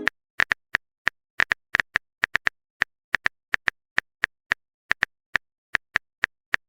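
Phone keyboard typing sound effect: a run of short, crisp taps, unevenly spaced at about three a second.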